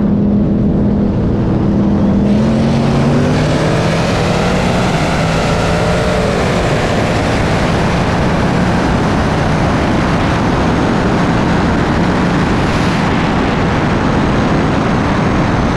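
Two turbocharged Ford Mustang V8s racing at full throttle. The engine note climbs in pitch over the first few seconds, then gives way to a loud, steady mix of engine and rushing noise.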